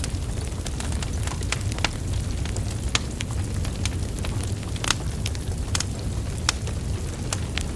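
Wood fire burning steadily with a low rumble of flames, and burning logs crackling and popping in sharp, irregular snaps; one louder pop comes about five seconds in.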